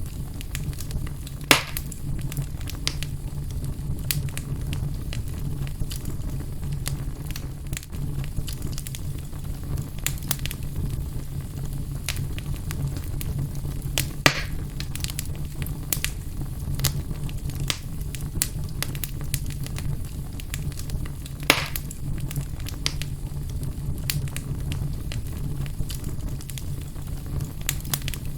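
Fire burning in a fireplace, crackling constantly over a steady low rumble. Three louder sharp pops come about 1.5 s, 14 s and 21 s in.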